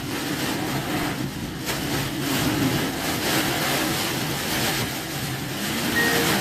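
Car driving through heavy typhoon rain on a waterlogged road, heard from inside the cabin: the engine running under a steady rushing noise of water and rain.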